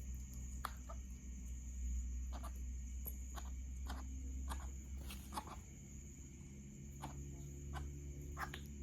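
Coucal chick feeding: about a dozen short, sharp calls at irregular intervals, over a steady high-pitched tone and a low hum.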